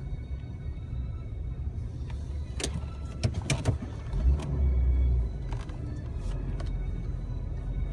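Jeep Wrangler running, a steady low rumble heard from inside the cab, with a cluster of sharp clicks and knocks about three seconds in.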